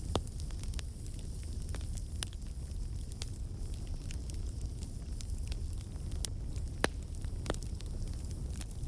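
Wood campfire burning: a steady low rumble of flame with scattered sharp crackles and pops from the logs, the loudest pop about seven seconds in. The crackles come from water and sap trapped in the wood turning to steam and bursting out.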